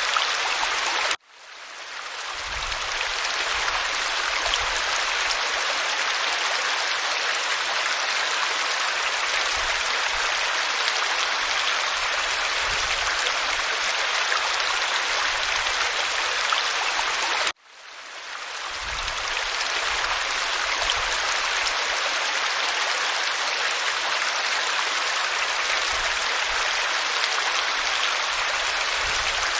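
Waterfall pouring over rock: a steady rush of falling water. It cuts out abruptly twice, about a second in and again about halfway through, each time fading back up over about two seconds, as at the seam of a looped recording.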